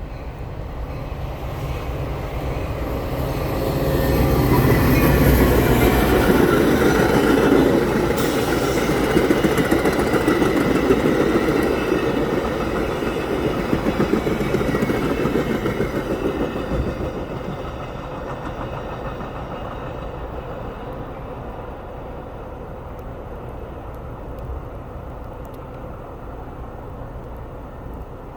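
Metra commuter train passing at speed, its rumble and wheel rattle building over the first few seconds. It stays loud for about twelve seconds as the cars go by, then fades as the train moves away.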